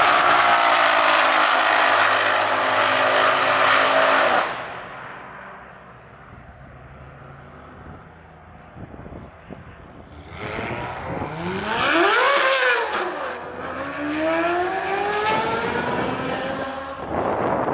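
Performance car engines at full throttle on a drag strip. First a dark Ford Mustang goes past at speed, loud with its pitch falling away. After a quieter stretch, a Nissan GT-R's twin-turbo V6 revs up and down, then pulls hard with its pitch climbing steadily, and another loud engine cuts in near the end.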